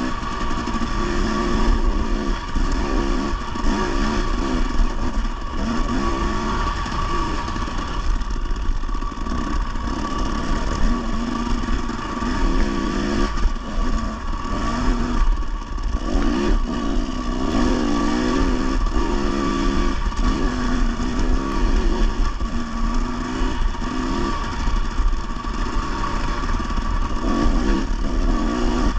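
Dirt bike engine running, its note rising and falling over and over as the throttle is worked on a trail ride.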